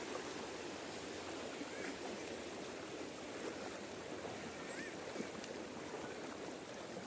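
Floodwater flowing steadily: a continuous even rushing noise, with a couple of faint short chirps about two and five seconds in.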